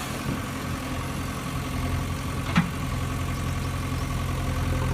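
Steady engine-like idling drone of a toy JCB backhoe's engine sound, with a single sharp click about two and a half seconds in.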